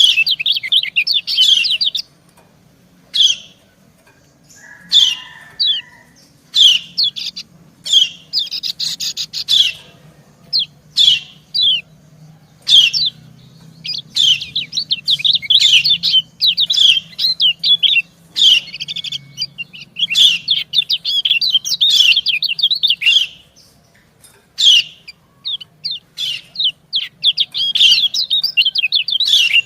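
Kecial kuning (lemon-bellied white-eyes) calling: female 'ciak' chirps traded with male song, as short single high chirps alternating with longer runs of rapid twittering, the longest run in the middle.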